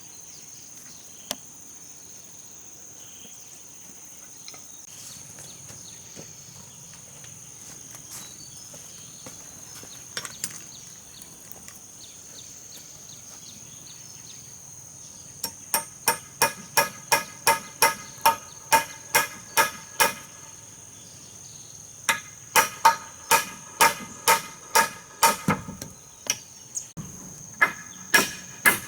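Hammer blows in quick runs of about three a second, each strike ringing, starting about halfway in and pausing briefly twice. Steady insect chirring sits underneath throughout.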